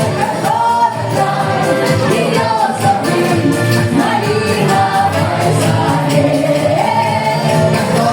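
A vocal trio singing a Russian song in harmony, with musical backing.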